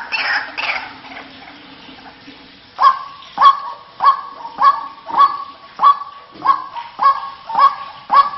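White-breasted waterhen (ruak-ruak) calling: a burst of overlapping calls that fades within the first second, then, after a short lull, a steady series of sharp calls a little under two a second, each dropping in pitch.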